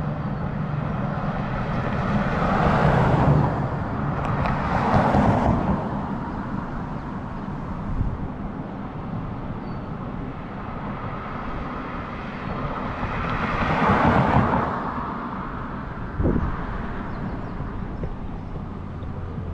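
Road traffic passing: three vehicles swell up and fade away, two close together a few seconds in and one more about two thirds of the way through, over a steady low rumble of wind on a bike-mounted action camera's microphone. Two short knocks, one near the middle and one late.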